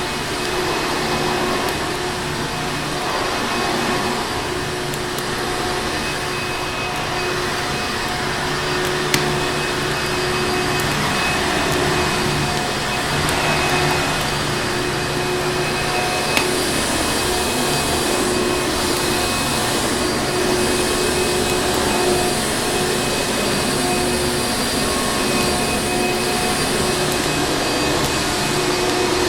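Vacuum cleaner running steadily, a dense rushing noise with a constant motor hum and whine. A few sharp pops from a crackling fireplace are mixed in, about a third and halfway through.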